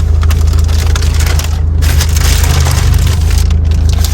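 Steady low rumble of a car on the move, with a crackling rustle in the middle.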